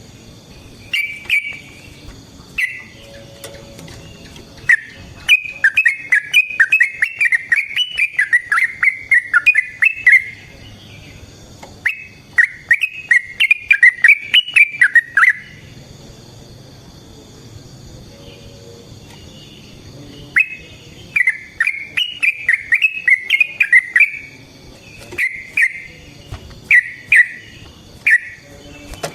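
Yellow-vented bulbul (trucukan) singing: loud phrases of rapid, bubbling notes, a few short ones and several long rolling runs of up to about five seconds, separated by brief pauses.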